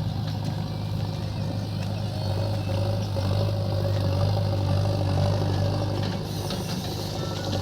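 Heavy diesel engine running steadily at low speed, with a faint higher whine through the middle.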